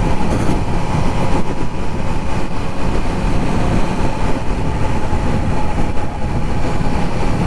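Steady wind rush on the microphone of a motorcycle cruising at road speed, with the Triumph Trident 660's three-cylinder engine running evenly beneath it.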